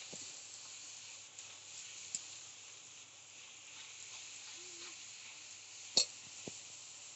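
Spiced tomato-chilli masala sizzling in oil in a steel kadai while a spoon stirs it. A few sharp clinks of the spoon against the pan, the loudest about six seconds in.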